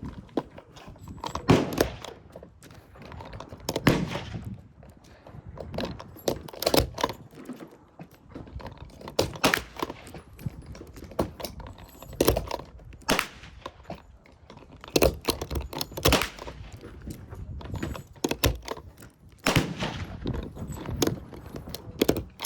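An irregular series of sharp bangs or knocks, roughly one every second, some in quick clusters, over a low background rumble.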